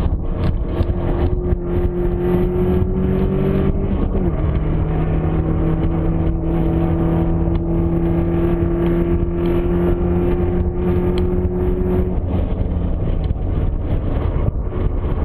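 Nissan 240SX with a swapped KA24DE four-cylinder and S14 drivetrain running in gear, over a bed of engine and road noise. A steady whine climbs slowly in pitch, dips briefly about four seconds in, then rises again and dies away about twelve seconds in. It is the intermittent in-gear whine the owner is trying to trace, which he suspects comes from the transmission.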